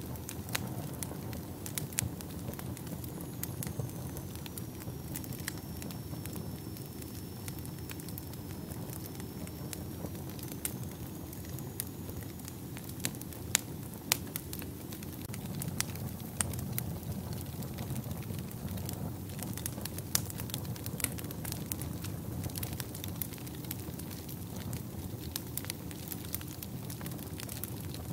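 Wood fire burning in a fireplace: a steady low rumble of the flames with frequent sharp crackles and pops, a few louder pops about halfway through.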